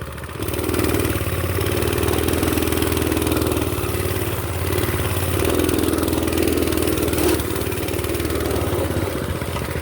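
Mini bike's small engine running steadily, its note swelling and easing slightly.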